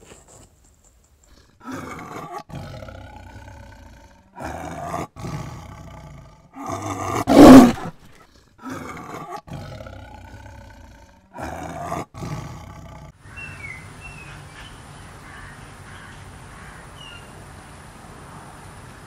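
Jaguar roaring: a series of hoarse, drawn-out roars, the loudest about seven seconds in. After about thirteen seconds only a faint steady background hiss with a thin high whine and a few faint chirps remains.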